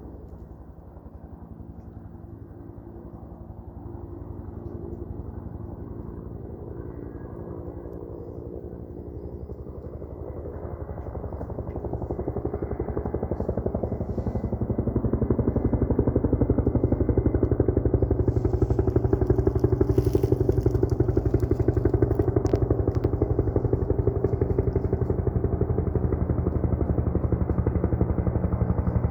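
Helicopter rotor and engine growing louder as it comes in, then holding steady at close range with fast rotor chop.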